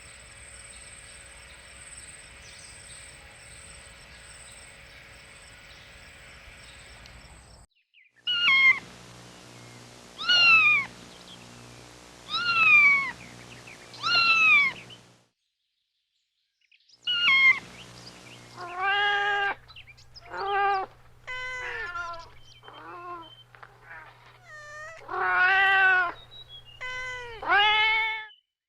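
Cats meowing in separate clips. After several seconds of faint steady hiss with a high whine, a kitten gives four high-pitched meows that fall in pitch, about two seconds apart. After a brief silence, lower and more varied meows follow, about ten in quick succession.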